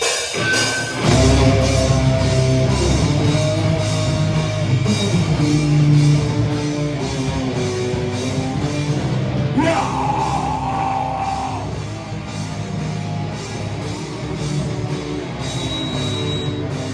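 Heavy rock band playing live, with loud guitars over a fast, steady drum kit beat. About ten seconds in, a note slides sharply up and is held for about two seconds.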